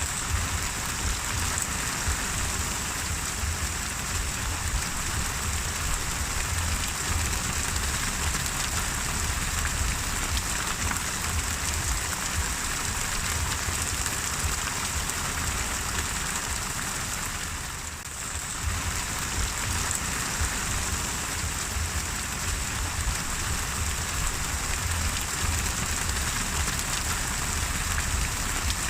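Steady rain falling, with a low rumble underneath. The sound dips briefly about two-thirds of the way through, then carries on as before.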